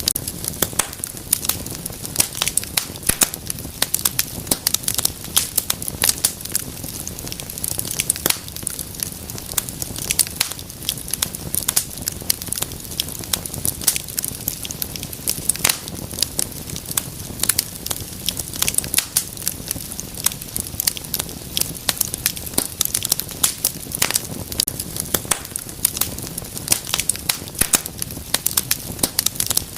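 Wood fire burning in a fireplace, with dense, irregular crackles and pops over a steady low rush of flame.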